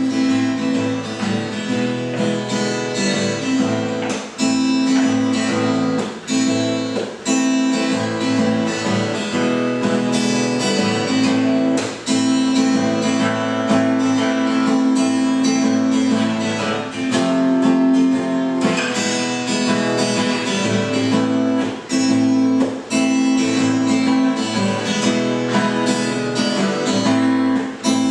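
Acoustic guitar strummed steadily, chords ringing, with no singing.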